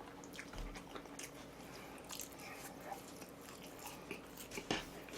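Faint close-up chewing and mouth sounds of someone eating, scattered soft smacks and clicks with one slightly louder near the end.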